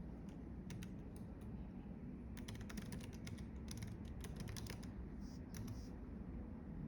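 Typing on a computer keyboard: a few scattered keystrokes about a second in, then a quick run of keystrokes through the middle, over a steady low background rumble.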